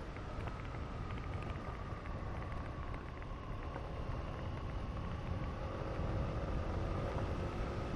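Honda SH150i scooter's single-cylinder engine and drive running at riding speed, with wind on the microphone and a steady low rumble. A thin whine sags slightly, then rises again in the second half as the scooter picks up speed.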